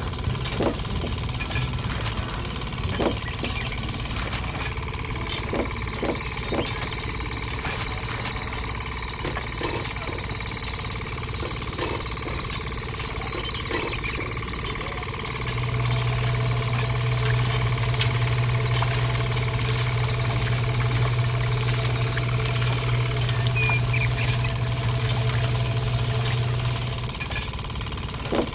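Small motor running steadily with scattered clicks. About halfway in its hum grows louder and stays so until shortly before the end.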